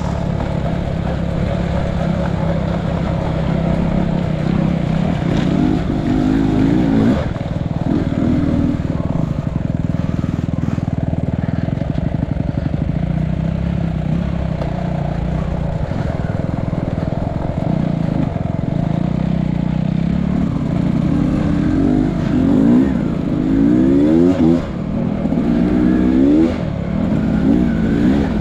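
Enduro dirt bike engine running under changing throttle, revving up and down repeatedly, with the revs rising and falling more often near the end.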